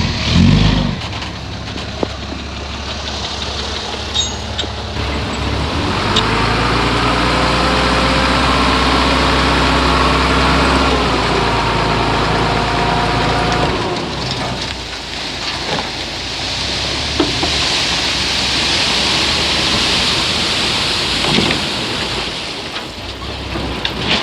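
Heavy diesel engine of earthmoving machinery running under load. The engine note is strongest and steadiest from about six to fourteen seconds in, then eases off while a hissing noise grows.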